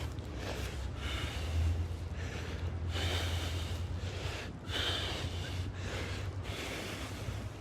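A man breathing hard through his nose and mouth as he trudges through snow, a noisy breath about every second, over a steady low rumble.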